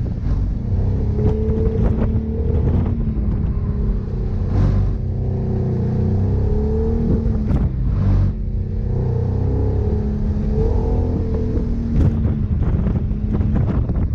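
Subaru BRZ's 2.0-litre flat-four engine heard from inside the cabin, its pitch rising and falling again and again as the car is driven hard, with a few short sharp noises along the way.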